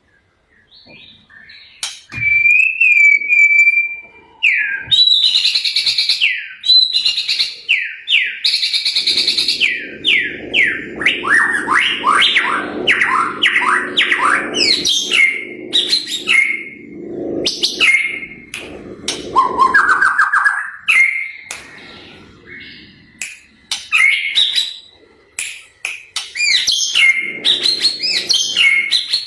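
A caged starling singing a long, varied song. It opens with a held, wavering whistle, then goes into fast runs of sweeping notes, chattering and repeated whistles, with short pauses between phrases.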